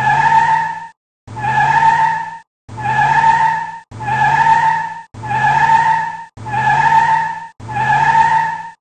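Car tyres squealing in a drift, over a low engine tone that rises in each repeat. A short clip about a second long repeats seven times, with brief silent gaps between, like a looped sound effect.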